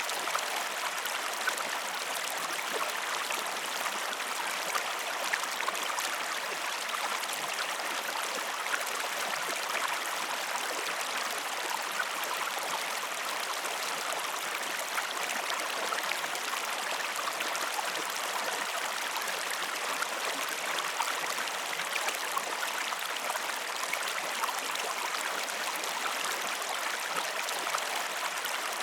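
Flowing river water, a steady even rush with small splashy ticks throughout.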